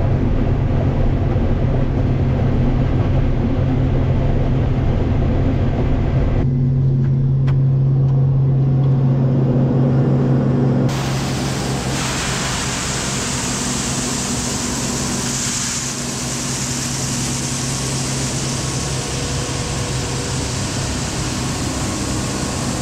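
Farm harvesting machinery running steadily, a loud engine hum. The sound changes abruptly about six and eleven seconds in, and the later part is mostly a broad, even rushing noise.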